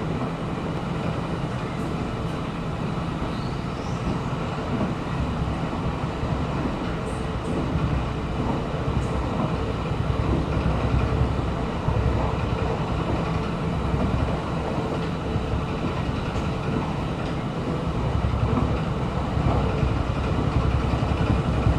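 Chu-Kuang Express passenger train running at speed, heard from on board: a steady low rumble of wheels on rail that swells a little now and then.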